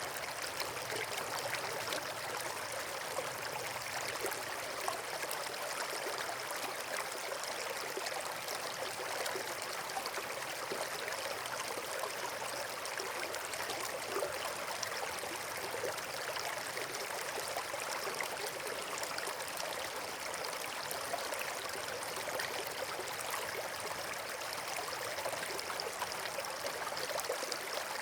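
Steady rushing of running water, like a stream or small waterfall, even in level throughout with a fine fizzing texture.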